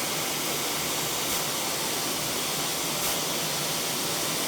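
1500 W fiber-laser sheet-and-tube cutting machine cutting sheet metal: a steady, even hiss of the gas jet at the cutting head, with a few faint ticks.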